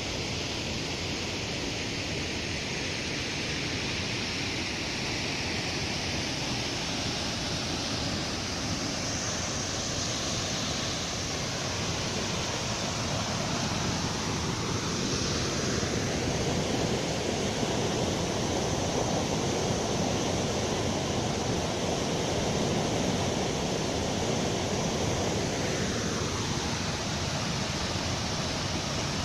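Waterfall with several drops, a steady full rush of falling water whose tone shifts slowly now and then.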